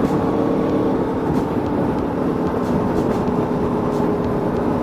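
Aprilia Tuono V4 motorcycle's V4 engine running at a steady cruising speed, a constant hum over a rushing noise.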